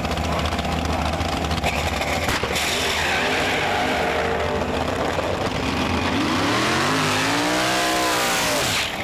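Small-block Ford V8 of a stick-shift Mustang running at full throttle through its mufflers on a quarter-mile drag pass, close to the rev limiter. Its pitch climbs high and falls away near the end.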